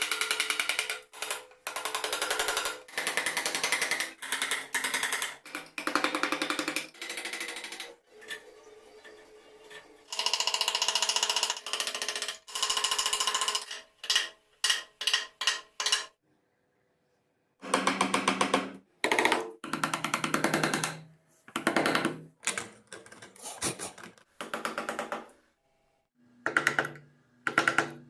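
Small power tool working wood in repeated short bursts, each a fast, even buzz lasting a second or two, with a pause of about a second and a half near the middle.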